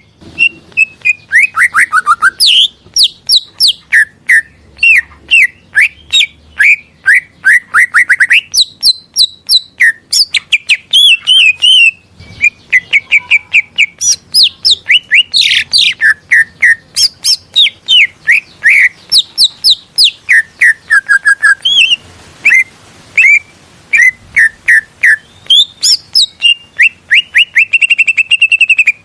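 Cucak ijo (green leafbird) singing a fast, varied song of short whistled and chattering notes, many repeated in quick series, with hardly a pause.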